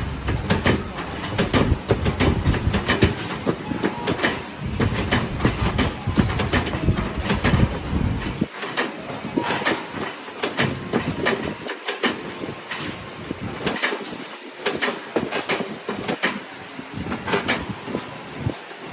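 Metalworking noise on a factory floor making wire grill racks: irregular clanking and clicking of metal parts. A low machine rumble underneath stops about eight and a half seconds in.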